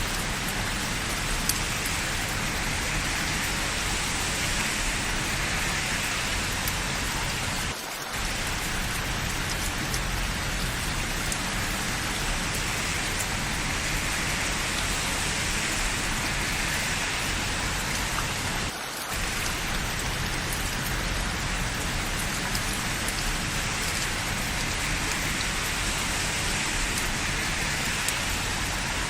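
Steady rain falling on hard surfaces, with a few sharp drip ticks. The level dips briefly twice, about a quarter of the way in and again past halfway.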